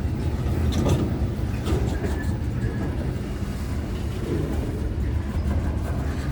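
Long freight train rolling past, its cars, loaded with lumber, making a steady low rumble of wheels on rail with a few faint clicks.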